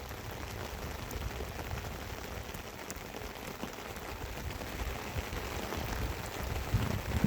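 Steady rain falling, an even hiss with scattered drop ticks and an uneven low rumble underneath.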